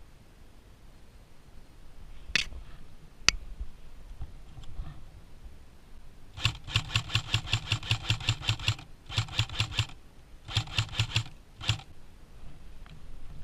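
Airsoft gun firing on full auto: a burst of about two seconds at roughly ten shots a second, then two shorter bursts and a single shot. Two sharp single cracks come a few seconds before the bursts.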